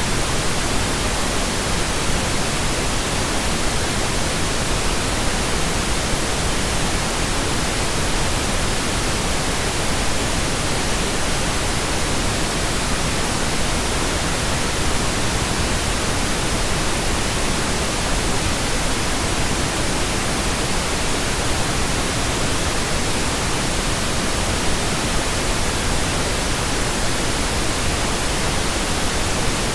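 Steady synthetic pink noise generated in Audacity: an even, unchanging hiss across the whole range.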